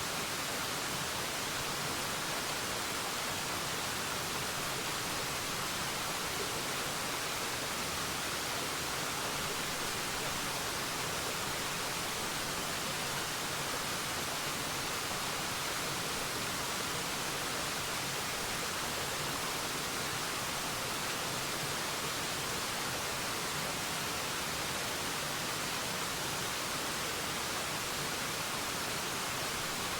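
Waterfall: water falling and splashing in a steady, even rush of noise with no change.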